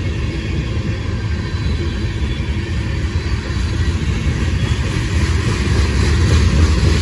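CSX freight train rolling past, a steady low rumble that grows a little louder near the end.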